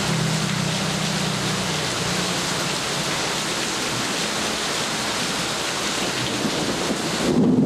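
Steady heavy rain falling in an even hiss. Near the end a low rumble of thunder sets in.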